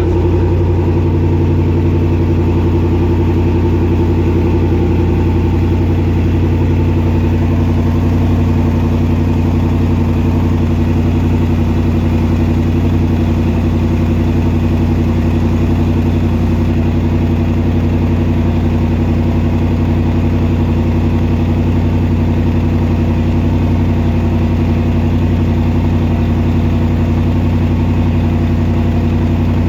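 Range Rover Sport SVR's supercharged V8 idling steadily after a cold start, with an even, unchanging pitch.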